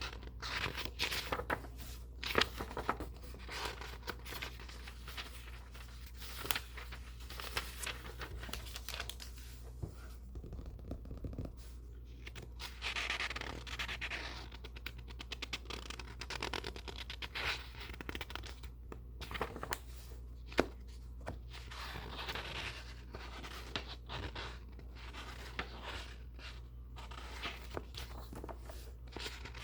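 Books being handled close up: paper pages rustling and turning, with scratching and scraping on paper and covers and scattered short clicks, over a steady low hum.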